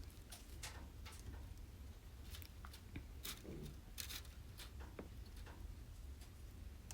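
Wood campfire crackling: irregular sharp pops and snaps, two louder ones near the middle, over a low steady rumble.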